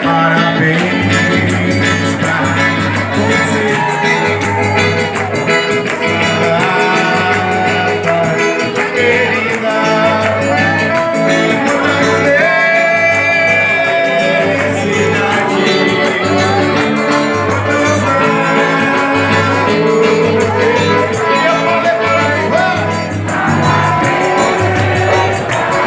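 Forró band music with singing over a steady, regular bass beat.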